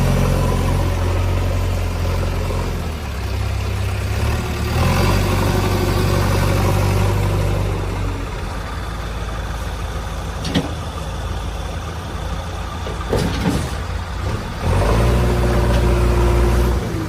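Heavy diesel engine of a backhoe loader or tractor running, its engine speed rising and falling several times, with a few short sharp knocks near the middle.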